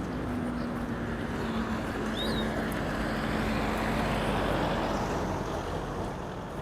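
A motor vehicle's engine passing: a steady low hum over a rushing noise, swelling to its loudest about four seconds in and then fading. A bird chirps briefly near the middle.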